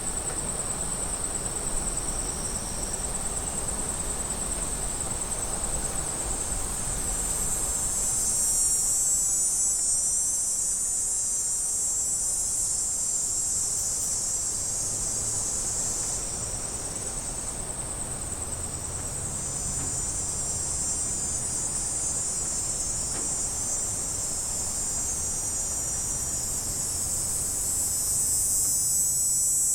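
A chorus of cicadas buzzing in a continuous high-pitched drone that swells a little about eight seconds in and again near the end.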